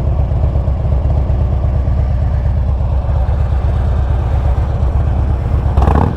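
Harley-Davidson Street Glide's V-twin engine running at idle through Sharkroad 4.5-inch slip-on mufflers, a steady low rumble, with a short blip of the throttle near the end. Picked up by a headset microphone.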